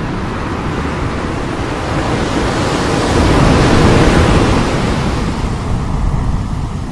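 Heavy sea surf: a big wave builds, breaks loudly about halfway through and washes back, easing off near the end.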